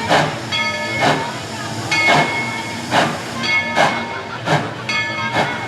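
Steam locomotive working slowly, its exhaust chuffing sharply a little less than once a second over a steady hiss.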